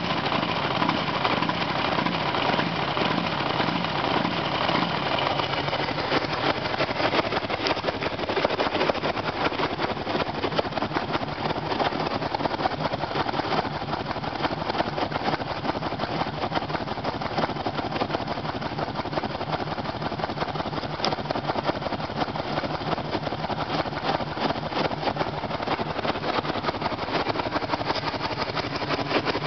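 Motorcycle engine idling steadily through a KERKER turn-down aftermarket muffler, moments after being started.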